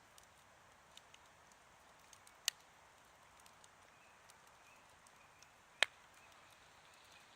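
Wood campfire burning quietly with sparse crackles over a soft hiss, and two sharp louder pops about two and a half seconds in and again near six seconds.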